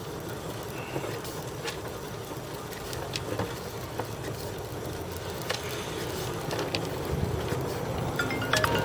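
Sewer inspection camera's push cable being fed through the drain pipe: a steady low rumble with scattered light clicks.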